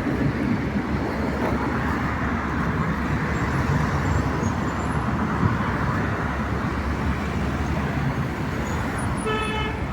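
Steady road traffic noise from passing cars, with a short car horn toot near the end.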